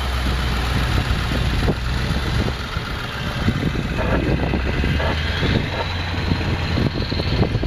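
Vehicle engine idling with a steady low hum that fades about three seconds in, under a constant rush of outdoor noise with gusts of wind on the microphone.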